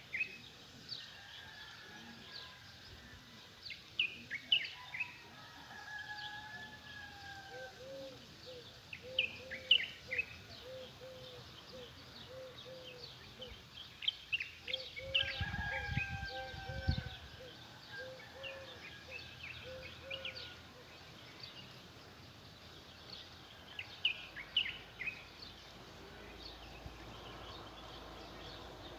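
Small birds chirping and twittering throughout, with a few longer whistled notes and, through the middle, a low call repeated evenly a couple of times a second. A brief low rumble comes about halfway through.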